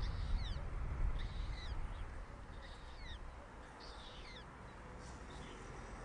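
High, falling bird chirps in short groups of two or three, about one group a second, over a low rumble that fades away in the first two seconds.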